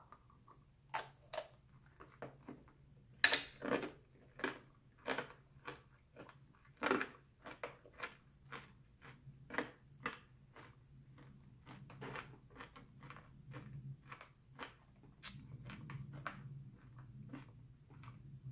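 A candied strawberry's hard sugar shell crunching as it is bitten and chewed: a run of sharp crunches about two a second, loudest a few seconds in and getting softer toward the end.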